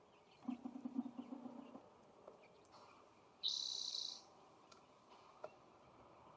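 A bird at the feeder gives one short, harsh, high call about three and a half seconds in. Before it, starting about half a second in, a low pulsing sound runs for just over a second.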